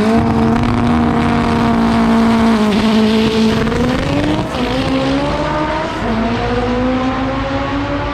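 Drag-racing car's engine at full throttle down the strip, its note holding, then dropping at gear changes about two and a half seconds and six seconds in, and climbing again after each.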